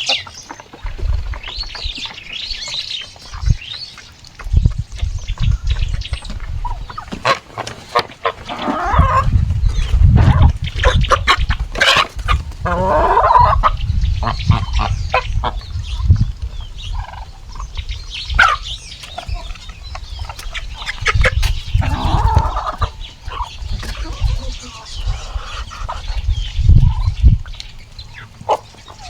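Farm poultry calling now and then, over repeated bursts of low rumble and scattered clicks.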